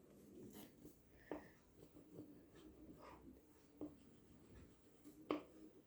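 Faint scratching of colouring strokes on paper, with a few small clicks, the sharpest one about five seconds in.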